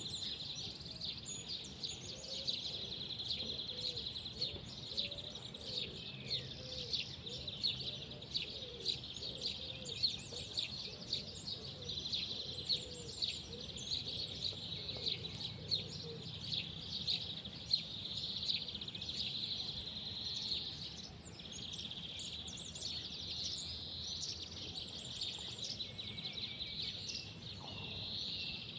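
Many small birds chirping and twittering at once, without a break, over a steady low background rumble.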